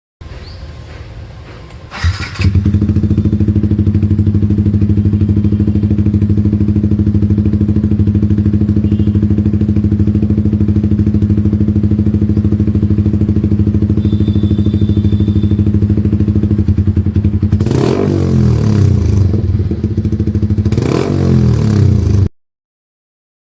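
Yamaha R15's single-cylinder engine through an aftermarket exhaust, started about two seconds in and settling into a steady idle, then blipped twice near the end before the sound cuts off.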